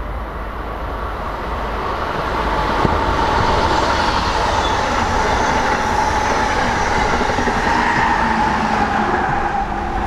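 Amtrak Silver Service passenger train passing at speed: a continuous rush of wheels on rail that grows louder over the first few seconds and then holds, with a steady whine that slowly sinks in pitch.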